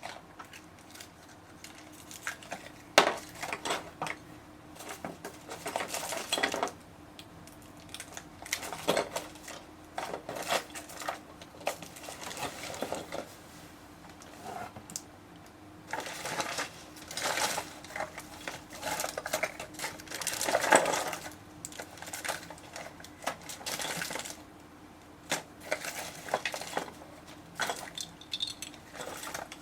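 Slime being squeezed and worked by hand: irregular bursts of small wet clicks and crackles.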